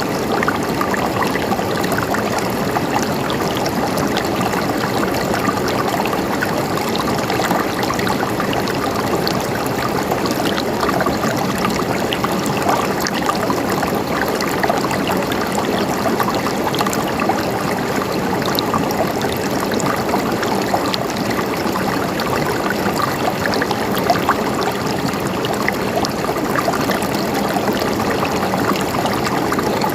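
River water flowing and splashing over rocks in a steady, even rush, with small splashes flecked through it.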